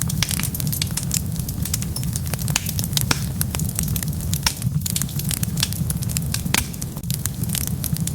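Wood fire burning with frequent sharp crackles and pops over a steady low rumble of flame.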